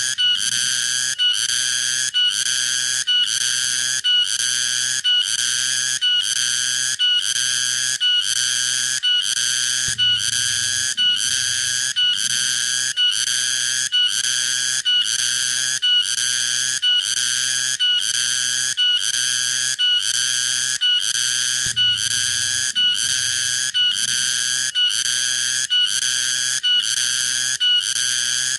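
Cicada calling: a high-pitched buzzing song chopped into evenly repeating pulses, about three every two seconds, with only brief breaks between them.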